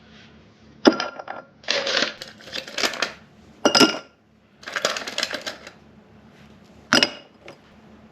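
Clinking and clattering of small hard objects being handled at the table: three sharp clicks with two short runs of clatter between them.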